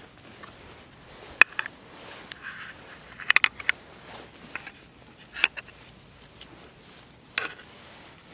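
Wood campfire crackling, with sharp irregular pops about every second or two and a quick cluster of pops near the middle.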